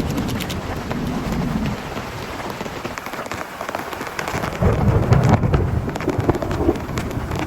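Heavy rain pattering on a tent, dense with sharp drop hits, under low rumbles of thunder that swell again about five seconds in, the loudest moment.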